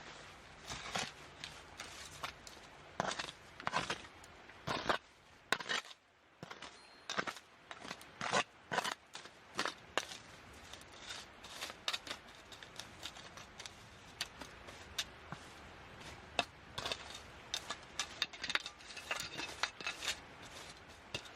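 Irregular clicks, knocks and scrapes of camping gear being handled, with short stretches of rubbing and a light metallic jangle.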